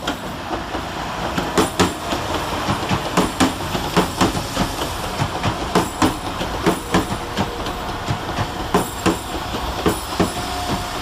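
Two coupled Class 172 Turbostar diesel multiple units running slowly into the platform, their wheels clicking irregularly over rail joints and pointwork above a steady running noise.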